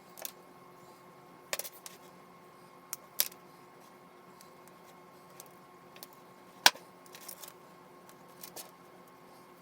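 Scattered sharp clicks and light knocks of small hard objects being handled, with the loudest single knock about two-thirds of the way through, over a faint steady hum.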